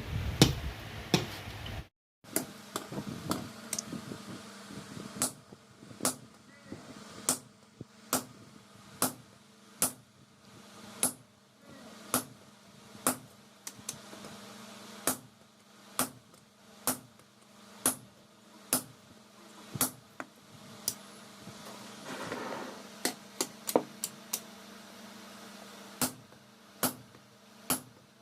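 Rumbling noise with a few sharp hits that cuts off about two seconds in, then hand-hammer blows on steel at about one a second, quickening for a few strokes near the end, over a steady low hum: the leaf-spring steel being hammered into a dao blade.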